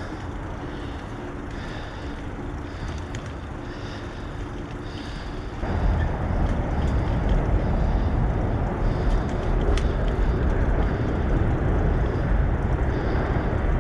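Steady rumbling noise of a bicycle ride, wind and tyre noise on the microphone, which jumps abruptly louder about six seconds in and stays loud.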